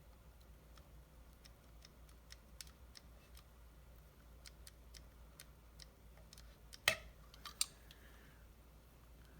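Faint, irregular clicks of small metal parts and tools being handled on a workbench, with two sharper knocks about seven seconds in.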